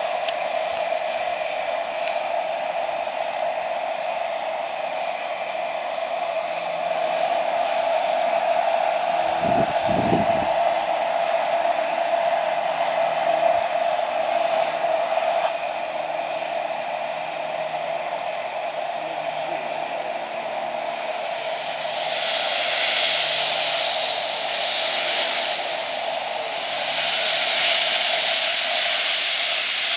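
Miniature railway steam locomotive giving off a steady hissing hum, with a short low thump about ten seconds in and two louder blasts of steam hiss, each a few seconds long, near the end.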